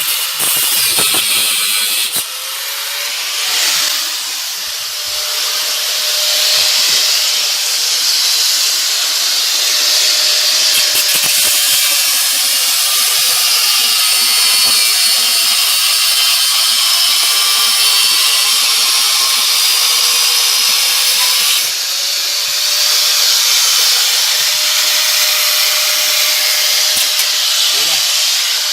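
Angle grinder cutting through steel studs on a front reduction-gear housing: a loud, steady grinding hiss over the motor's whine, easing off briefly twice.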